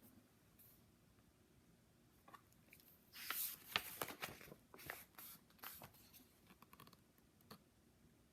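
Paper rustling and crinkling as a picture book's pages are handled and turned, in a short run of crackly bursts from about three to six seconds in.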